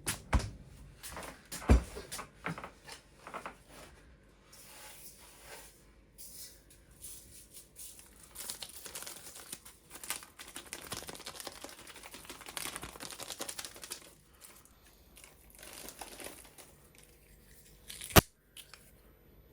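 Kitchen handling sounds: crinkling and rustling, with a few knocks in the first couple of seconds, a long spell of dense crackling in the middle, and one sharp click near the end.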